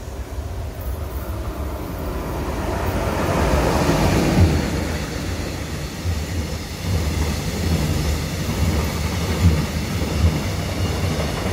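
Korail E-Train education train passing along the track: a rushing rail rumble that builds up over the first few seconds and is loudest about four seconds in, then carries on as a steady low rumble of wheels on rail with a few louder knocks.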